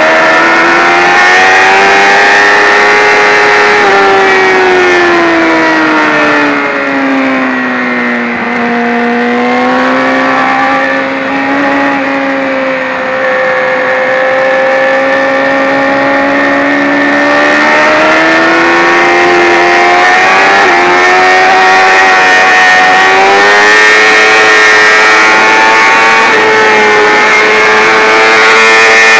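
Sportbike engine at race pace heard onboard, its note climbing and falling with the throttle and gear changes over a steady rush of wind. It sags lower and a little quieter through the middle, then climbs again in steps near the end.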